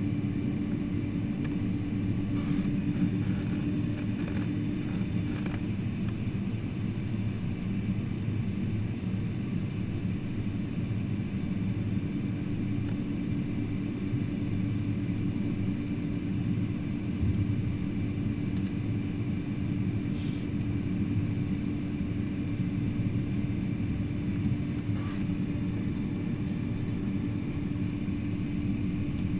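Steady rumble and hum inside the cabin of a Boeing 747-400 on the ground, with a constant tone that drops out briefly a few seconds in and returns, and a few faint clicks.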